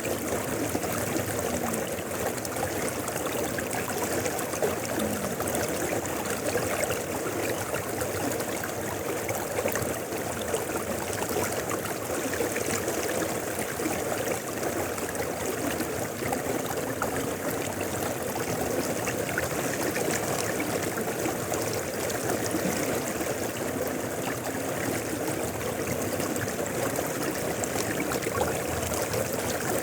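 Mountain river flowing, a steady continuous rush of running water.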